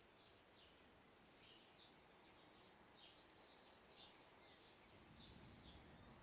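Faint forest birdsong: many quick, downward-sweeping chirps from small birds, several a second, over a soft background hiss. A low rumble comes up near the end.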